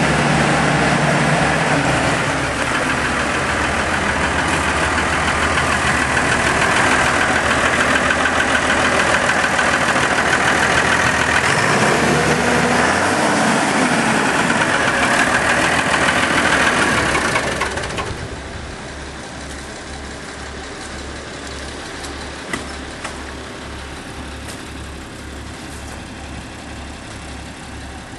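Legend 145 tractor's diesel engine running at raised revs, its pitch rising and falling, then dropping back to a steady idle about two-thirds of the way through.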